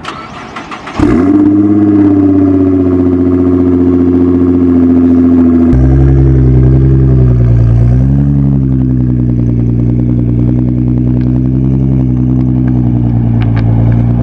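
Car engine starting with a loud flare that quickly settles into a steady, loud idle, with the idle note deepening about a third of the way through and dipping briefly soon after.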